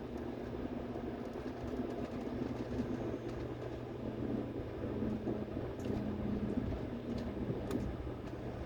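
Seoul Metro Line 8 subway train running, heard from inside the car: a steady rolling rumble with a low motor hum and a few faint clicks.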